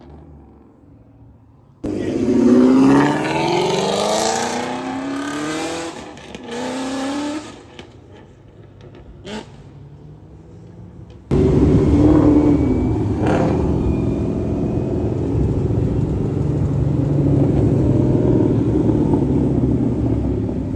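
A car engine accelerating hard, its pitch climbing several times in a row, then fading out. After an abrupt cut, a car's engine and road noise run steadily.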